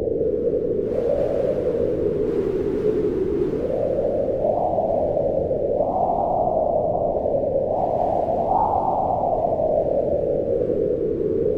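Wind blowing in a steady low rush that swells and eases in slow gusts, rising a little higher in pitch a few times through the middle.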